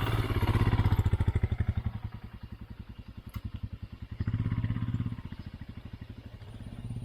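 Single-cylinder motorcycle engine pulling hard on the throttle. It is loudest for the first two seconds, eases off, then comes back in a second burst of throttle about four seconds in before dropping away.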